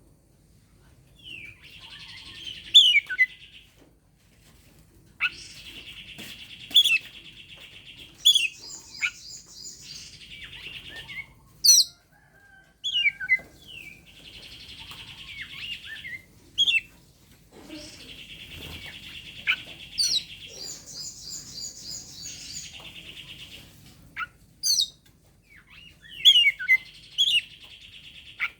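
Oriental magpie-robin (kacer) singing an aggressive challenge song: harsh buzzy chatter a second or two long alternates with loud, sharp whistled notes sliding up and down, over and over. This fighting song is the kind used as a lure to provoke other songbirds into singing.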